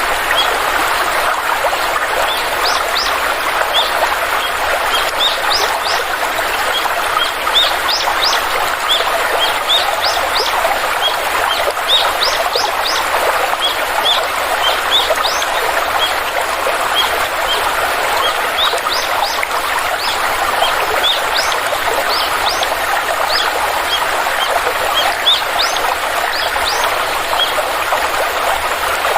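Stream water flowing steadily, with small birds giving many short, high chirps, several a second, over it.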